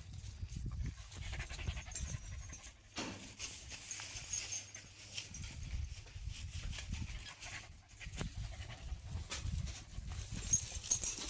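Calf suckling milk from its mother cow, an irregular run of low sucking and nuzzling sounds.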